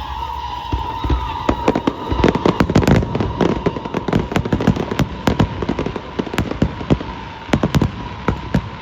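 Fireworks going off in a rapid run of sharp cracks and bangs. The cracks are densest from about a second and a half to three and a half seconds in, then thin out, and a second cluster comes near the end. A steady high tone runs beneath them.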